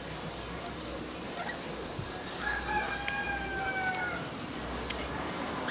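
A bird's single long crowing call, about a second long and slightly falling in pitch, near the middle, with a few faint short chirps around it.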